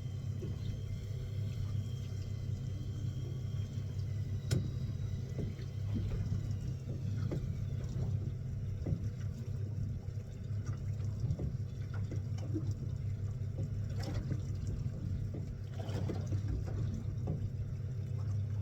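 Boat engine running with a steady low hum, with water sloshing and a few sharp clicks and knocks, the clearest about four and a half seconds in.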